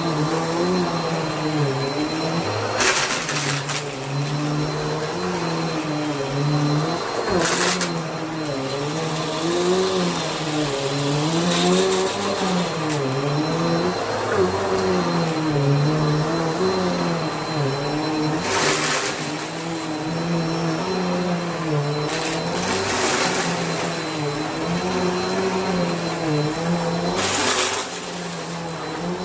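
Bissell vacuum cleaner running continuously, its motor pitch wavering up and down. Several short bursts of rushing noise break in, about every four to five seconds.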